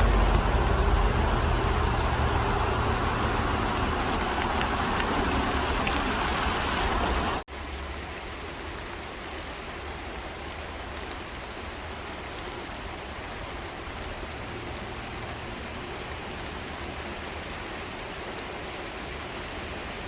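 Road traffic noise with a deep low rumble that cuts off abruptly about seven seconds in, replaced by a steady, quieter hiss of rain.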